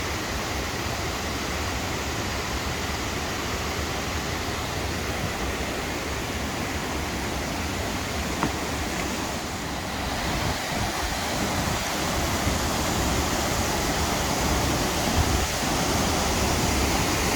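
Waterfall rushing: a steady noise of falling water, growing a little louder about ten seconds in.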